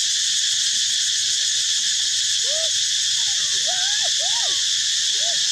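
Steady dense insect chorus, with a string of short squeaky calls that rise and fall, each a fraction of a second long, from about two and a half seconds in.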